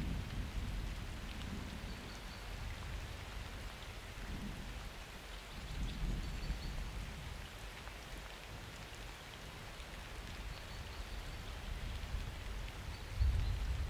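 Steady summer rain falling, with thunder rumbling: a low rumble dies away in the first couple of seconds, a softer one swells in the middle, and a louder one rolls in near the end.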